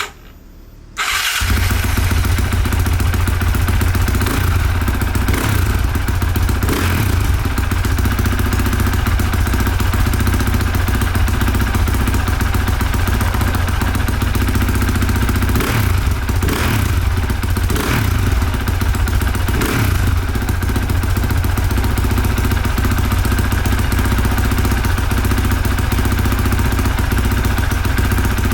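Honda CRF450R's single-cylinder four-stroke engine running steadily, cutting in about a second in, with a few brief surges: the bike running again after its no-start problem was fixed.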